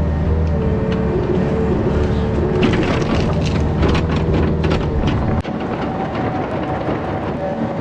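Yanmar VIO50 mini excavator's diesel engine running hard, with a run of sharp cracks and clatter in the middle. The low engine sound drops abruptly about five and a half seconds in.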